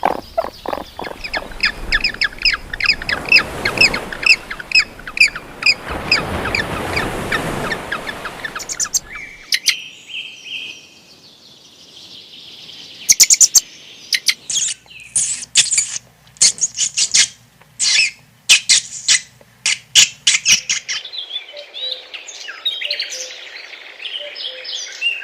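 Birds chirping and calling in several short stretches: a fast run of repeated chirps, then a held high note, then dense sharp chirps, then softer mixed calls.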